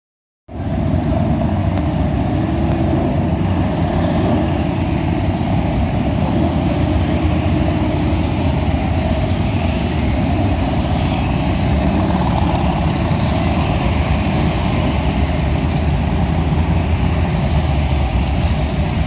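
Motorcycle engines running together in a steady, loud rumble, with a few slight rises in pitch as throttles are blipped.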